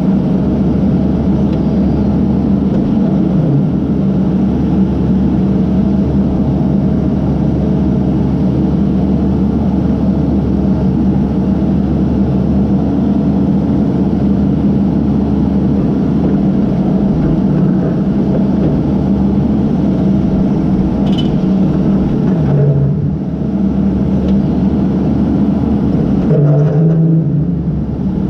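Case backhoe's diesel engine running steadily under working load. Its note shifts briefly twice in the last few seconds.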